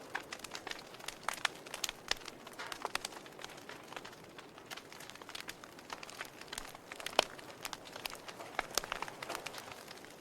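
Wood fire crackling: irregular sharp pops and snaps over a low steady hiss, with one louder pop about seven seconds in.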